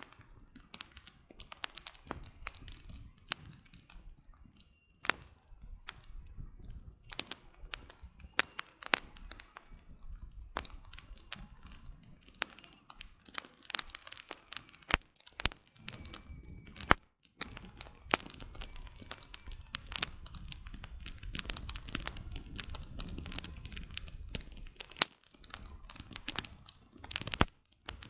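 Campfire burning: firewood crackling with a constant scatter of irregular snaps, with a few louder sharp pops standing out among them.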